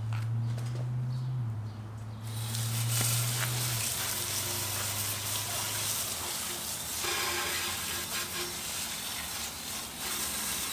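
Gas pressure washer with a Kohler engine spraying water: the hiss of the spray comes in about two seconds in and holds steady, over a low engine hum that fades out about halfway through.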